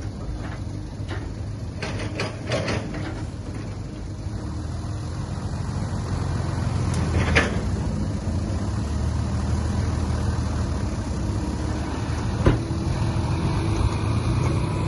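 Heavy diesel engine of earthmoving machinery running steadily and growing louder about six seconds in. A cluster of light knocks comes a couple of seconds in, and sharp metal clanks come twice later on.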